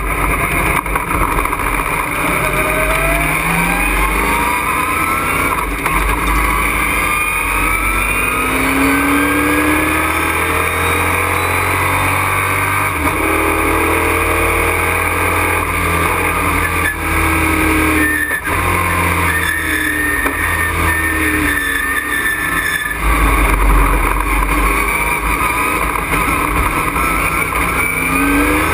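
Race truck's engine heard from inside the cockpit under racing load, climbing in pitch again and again as it accelerates and dropping back at each shift or lift, over a steady bed of wind and road noise.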